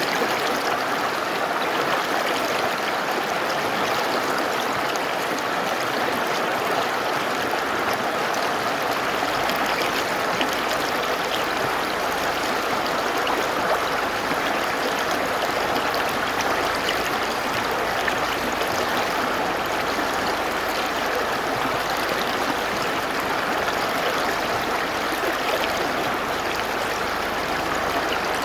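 Mountain river water rushing steadily, an even, unbroken rush of flowing water.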